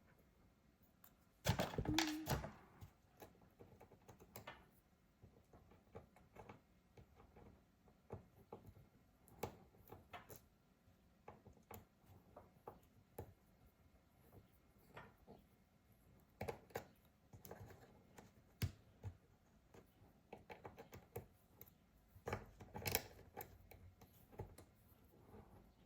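Scattered small clicks and taps of repair tools and small parts being handled while a MacBook Pro is being taken apart, with a louder brief clatter about two seconds in and another near the end.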